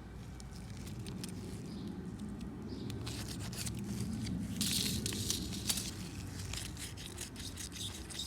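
Small brush scrubbing lawnmower carburetor parts: a scratchy, irregular rubbing that starts about three seconds in and grows louder, over a steady low hum.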